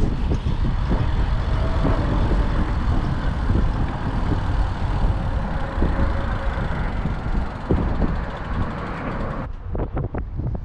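Road traffic passing with wind rumbling on the microphone while cycling over a bridge. The higher hiss cuts out suddenly near the end, leaving the low wind rumble.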